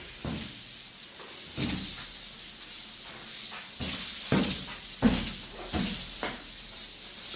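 A steady high hiss with about half a dozen soft knocks and bumps scattered through it.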